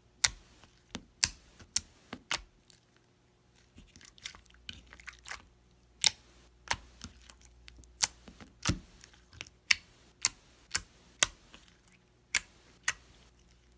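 Thick, jiggly slime being worked by hand, giving irregular sharp clicky pops about once or twice a second.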